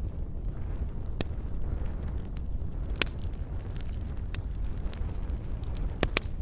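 Wood fire burning in a fireplace: a steady low roar of flames with scattered crackles, sharper pops about a second in, at three seconds, and two close together near the end.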